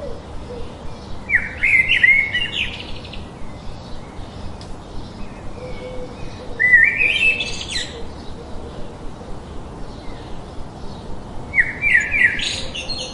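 A songbird singing three short phrases of quick chirps that step upward in pitch, about five seconds apart, over a steady background hiss.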